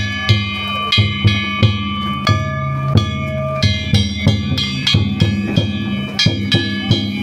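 Danjiri-bayashi festival music played on the float: a taiko drum beating in a steady, quick rhythm with metal kane gongs ringing on over it.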